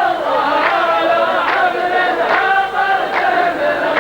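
A chorus of men chanting a sung line in unison, with long held notes and regular sharp accents.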